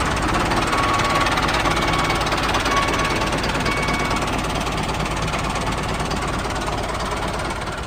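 A small motor-driven machine running steadily with a dense rattle, fading slightly toward the end.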